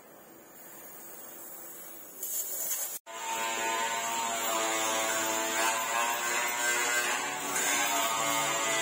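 An electric power tool's motor running with a steady whine, starting abruptly about three seconds in after a faint stretch.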